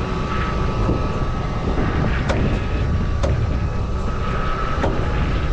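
A vehicle engine running steadily, with a thin steady whine and a few sharp clicks about two, three and five seconds in.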